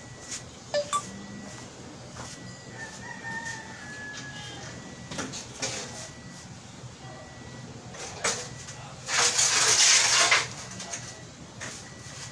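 A rooster crowing: a faint crow a few seconds in, then a loud one about nine seconds in lasting over a second. Scattered short knocks and clicks sound around it.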